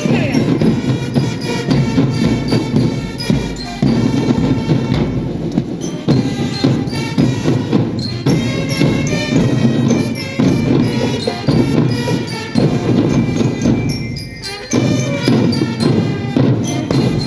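Marching drum band playing a march: snare and bass drums keep a steady beat under trumpets carrying the melody, with a brief break in the phrase about fourteen seconds in.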